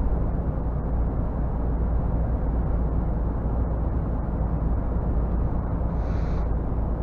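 Scania R450 truck's 13-litre straight-six diesel running steadily while the truck drives, a deep low rumble mixed with road and tyre noise.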